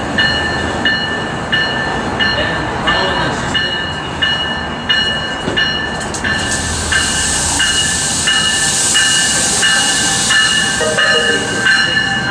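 NJ Transit commuter train approaching on electrified track, a steady rumble growing into a rushing hiss as it draws near. A bell dings about one and a half times a second throughout.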